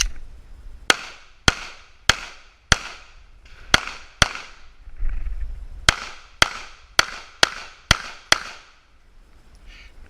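A Glock 19 pistol fired twelve times in quick strings of about two shots a second, each shot with a short echo. There is a break of over a second near the middle, as when the shooter moves between targets during a practical shooting stage.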